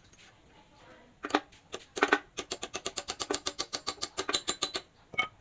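A few sharp clicks, then a quick even run of clicks at about ten a second for a couple of seconds, and one last click near the end.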